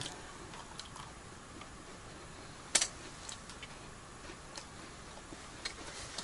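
Scattered faint clicks and ticks over quiet room tone, with one sharper click a little under three seconds in.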